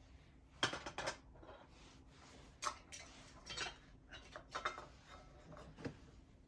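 Wood fire crackling, with faint, irregular clicks and pops spaced unevenly over the stretch.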